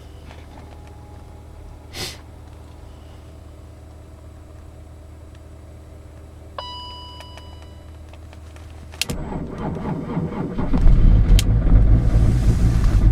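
BMW E39 530d's 3.0-litre straight-six diesel cold-started at −21 °C: a click, then about nine seconds in the starter cranks and the engine catches, running loud and rough at cold idle.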